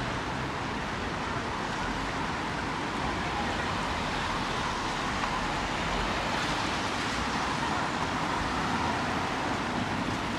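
Steady street ambience: a continuous, even hiss of traffic noise.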